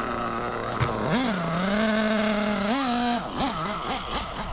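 Ielasi Dusty nitro RC engine running, blipped up in revs twice, then wavering and stumbling unevenly near the end. It is being tuned on the low-speed needle after sounding lean on the low end, which the owner also thinks could be an air leak.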